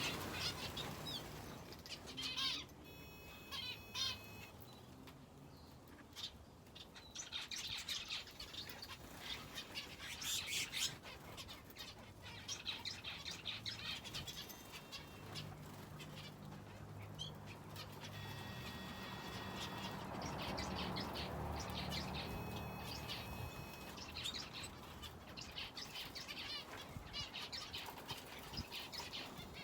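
Small aviary birds, finches and a canary, chirping and calling in short scattered bursts, with wings fluttering now and then.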